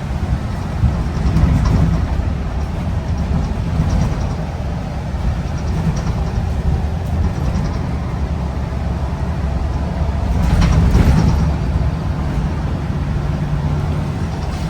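Scania L94UB Designline bus running with a steady low engine rumble and drone, which swells louder for about a second roughly ten seconds in.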